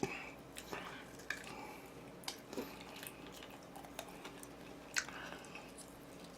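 A person chewing and biting food close to the microphone: faint, scattered soft clicks and wet mouth sounds, with a somewhat sharper click about five seconds in.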